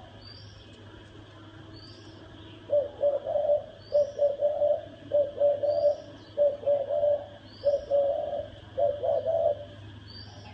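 Spotted dove (chim cu gáy) cooing: six low, throaty coo phrases in quick succession, starting about three seconds in. This is the 'thổ' call that hobbyists play to provoke rival males.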